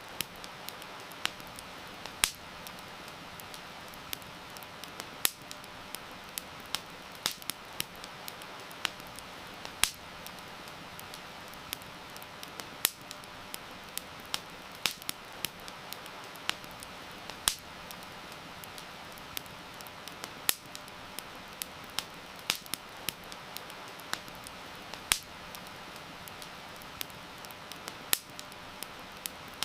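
Campfire crackling, with irregular sharp pops and snaps, some much louder than others, over a steady hiss of heavy rain.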